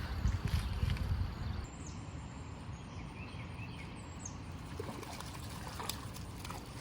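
Steady rush of flowing river water. A gusty low rumble of wind on the microphone is heavier for the first couple of seconds.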